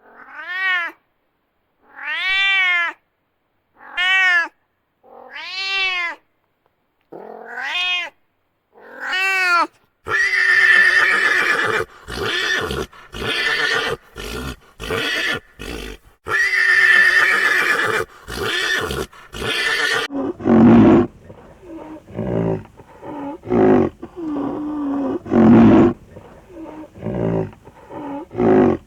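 A run of farm animal calls: first about six separate calls that rise and fall in pitch, about two seconds apart, then harsh, rasping calls with short breaks, then shorter, lower calls.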